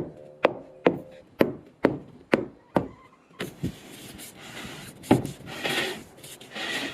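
A run of seven sharp knocks, about two a second, followed by a longer scraping, rubbing noise with a few scattered knocks.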